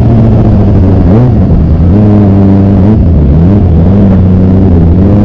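Kawasaki ZX25R's 250 cc inline-four engine running, with a few short rises in pitch from light throttle blips, about a second in and again around three and four seconds.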